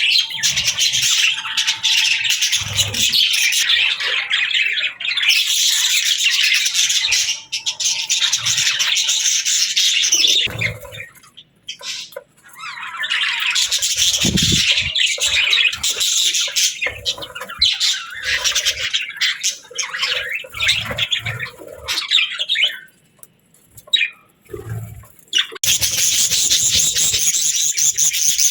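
Budgerigars chirping and chattering, several birds at once, with two brief lulls. Near the end the chatter turns higher and harsher.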